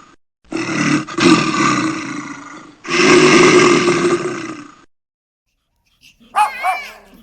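Two long, loud roars from a large animal, each lasting about two seconds with a brief break between them. After a second or so of silence, short high-pitched yelps with bending pitch begin near the end.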